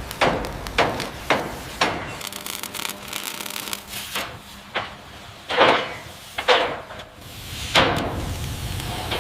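Repeated hammer blows, about two a second at first, then spaced-out irregular knocks with rubbing and scraping in between.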